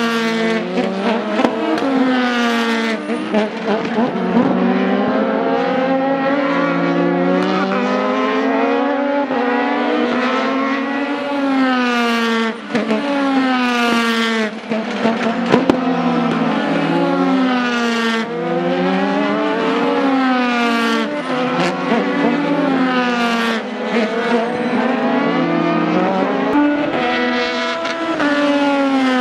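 Several race car engines at high revs passing in close succession, their pitch climbing through the gears and dropping sharply on each shift and as each car goes by.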